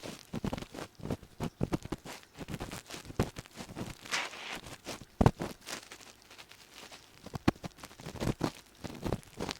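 Ear pick scraping and rubbing inside the ear in an ASMR ear cleaning, an irregular run of scratchy crackles and rustling with a few sharper clicks, one about five seconds in.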